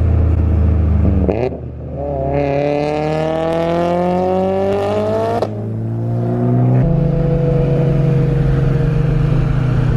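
Car engine accelerating through the gears: a short rev and shift about a second in, then one long pull with its pitch rising for about three seconds, a sudden drop at the next gear change, and a steady run after.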